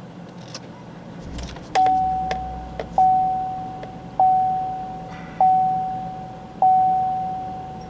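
Pickup truck's dashboard warning chime dinging five times, about one ding every 1.2 seconds, each fading away; the loudest sound. Underneath, the engine cranks and catches about a second in, then idles.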